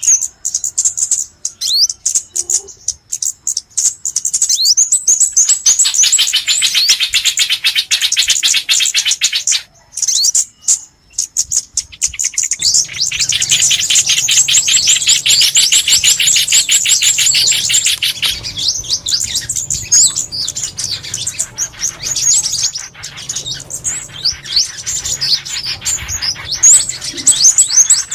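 Lure recording of small songbirds calling in a dense chorus of rapid, high chirps and twitters, thinning briefly about ten seconds in.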